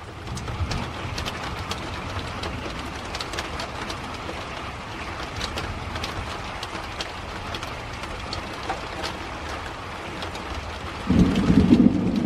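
Steady rain falling, with many raindrops ticking close by, then about eleven seconds in a sudden loud low rumble of thunder.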